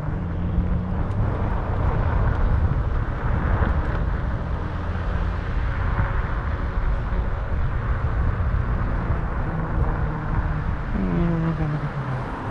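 Steady wind and road rush while riding a fat-tire electric bike at speed, heavy in the low end. About a second before the end there is a brief wavering pitched sound.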